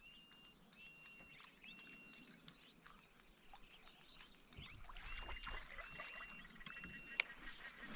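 Quiet wildlife sounds over water: a repeated short, high whistled call, about half a second each, comes three times near the start and three more times a little past halfway, over a steady high insect drone. There is a single click shortly before the end.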